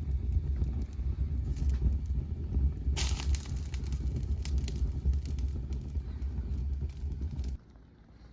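Snowstorm wind buffeting the microphone with a steady low rumble, with scattered crackles over it that thicken about three seconds in; it all cuts off suddenly near the end.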